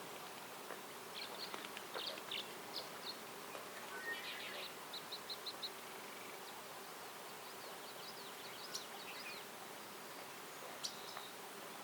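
Forest ambience: small birds chirping and trilling in scattered short high calls, including a quick run of about five short notes around five seconds in, over a steady low buzz of insects and an even hiss.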